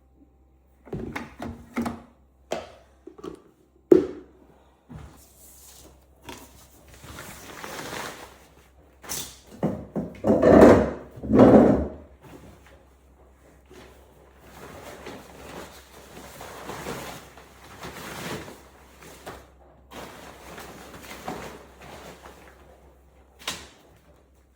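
Knocks and thunks of a washing machine being handled, its softener drawer and door shutting, with a sharp knock about four seconds in and two louder bursts of noise near the middle.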